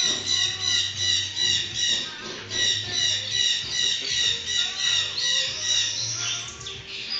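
A pet bird chirping in a fast, regular series of short high calls, about three a second, easing off near the end.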